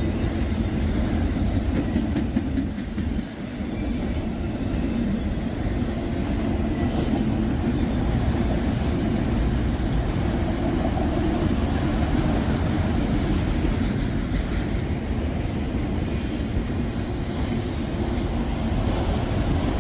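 Freight train of tank cars rolling past, a steady rumble of steel wheels on the rails with some clicking over the joints.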